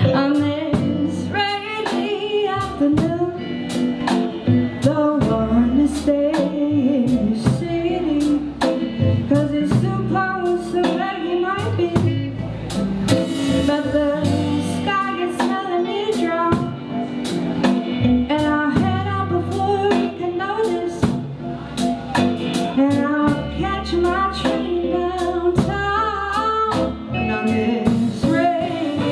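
A live rock band playing a song: a woman singing lead over electric guitars, bass guitar and a drum kit.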